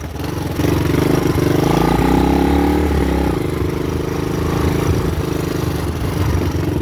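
Honda dirt bike engine running at speed. It revs up about half a second in, its pitch rises and falls over the next couple of seconds, and then it settles to a steadier note.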